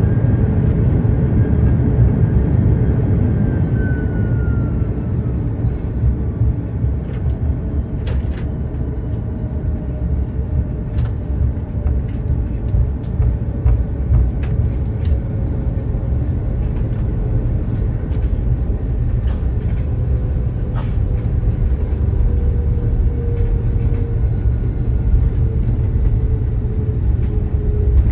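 Inside the cabin of an Airbus A330-202 on the ground after landing: a steady low rumble from the wheels and the General Electric CF6-80E1 engines, with a faint engine whine that slowly falls in pitch and a few light rattles.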